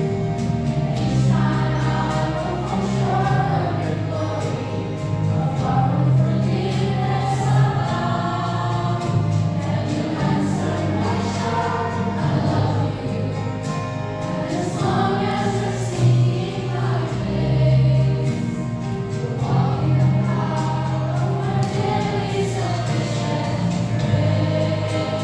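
Student choir singing a gospel song over a steady instrumental accompaniment.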